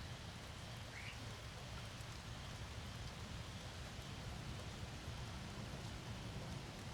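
Steady rain falling in a thunderstorm, an even hiss with a low rumble underneath. A brief faint high chirp comes about a second in.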